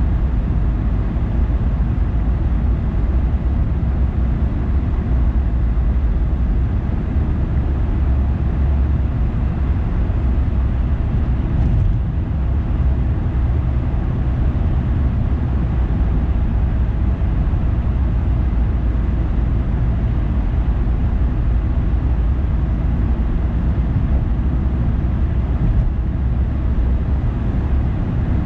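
Car driving along at a steady pace: an even, low rumble of engine and road noise that holds steady throughout.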